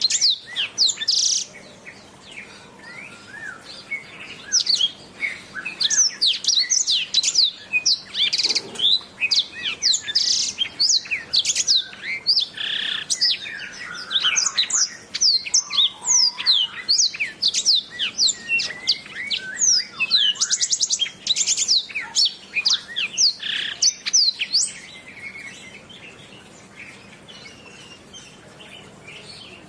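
Domestic canary singing a fast, unbroken song of rapid whistled sweeps and trills. The song dies down in the last few seconds.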